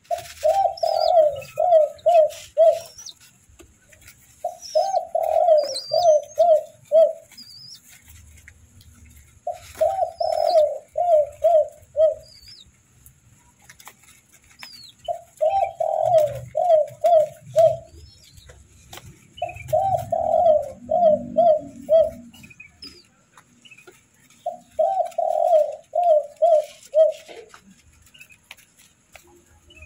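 A dove cooing in repeated phrases of about six quick notes each, six phrases a few seconds apart, with small birds chirping faintly in the background.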